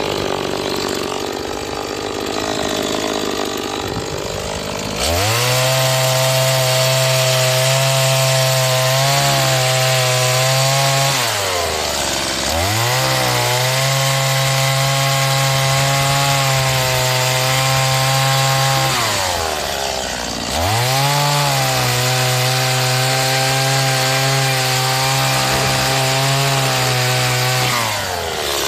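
Stihl MS 180 two-stroke chainsaw cutting firewood, a new saw being run in. After a few seconds at lower speed, the engine rises to a steady high pitch under load in three long cuts. It drops back briefly between cuts, about a third of the way in and again about two thirds in, and falls off near the end.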